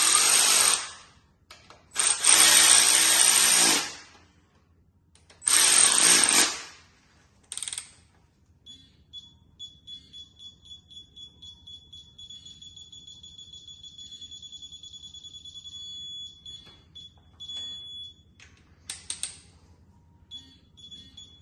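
A power tool runs in three short loud bursts and then a brief fourth one, spinning down the bolts of an engine block's main or rod caps. Then a steady, high, rapidly pulsing electronic tone sounds for several seconds, stops, and starts again near the end.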